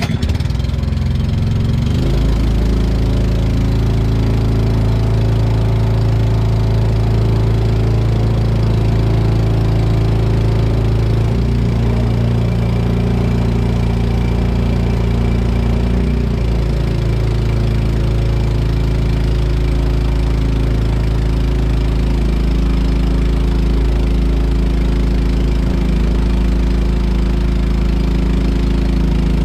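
An engine running steadily, its note shifting slightly about two seconds in and again around the middle.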